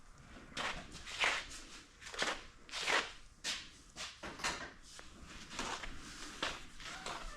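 Footsteps: a series of scuffing steps, one about every three-quarters of a second.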